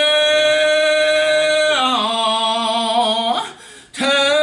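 A solo voice singing a slow gospel song, holding one long steady note that steps down in pitch about two seconds in. After a brief breath near the end, the next note begins.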